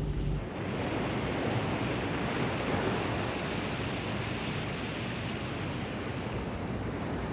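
Steady rushing sound of the sea, the wash of water and wind, cutting in about half a second in and stopping abruptly at the end.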